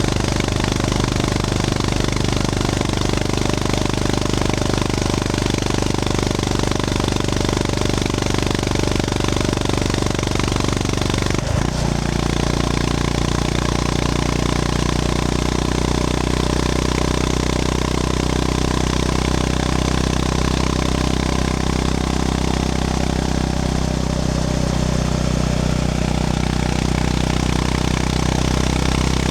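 Honda GB350S's air-cooled 348 cc single-cylinder engine running steadily under way. About twelve seconds in, the engine note drops abruptly and then holds steady at the lower pitch.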